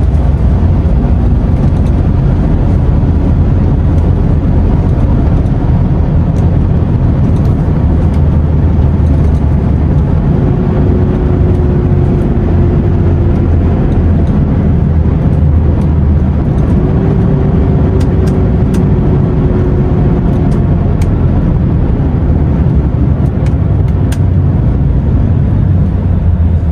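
DAF XF truck driving at a steady speed: continuous deep engine drone with road noise. A faint steady whine comes in twice around the middle.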